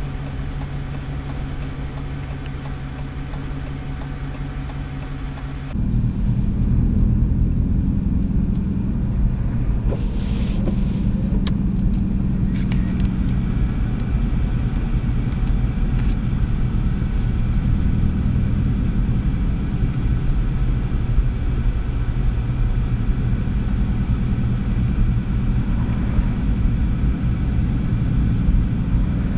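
Vehicle rumble: a steady low hum with a faint, fast regular ticking for about six seconds, then a sudden switch to a louder, rougher low rumble that holds steady.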